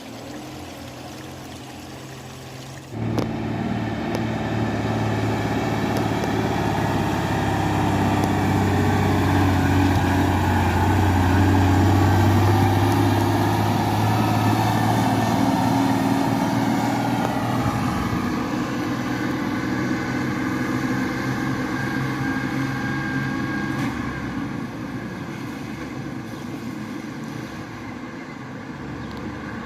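Diesel dump truck loaded with stone driving past, its engine coming in suddenly about three seconds in, loudest around the middle, then slowly fading away.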